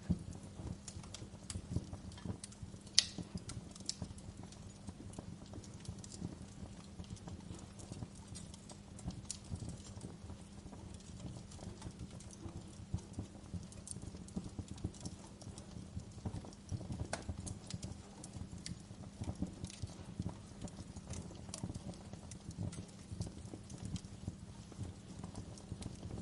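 Fire crackling: irregular sharp pops and ticks over a low steady rumble, with a louder pop about three seconds in and another about seventeen seconds in.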